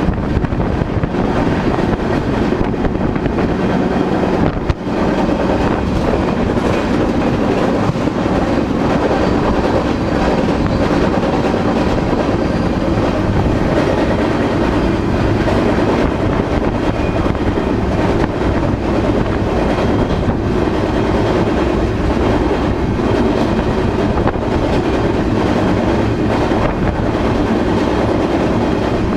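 Freight train rolling along, a steady loud rumble with the clatter of wheels over the rail joints.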